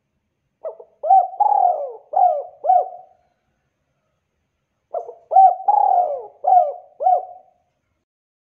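Spotted dove (tekukur) cooing: two phrases a couple of seconds apart, each a run of about five rolling coos.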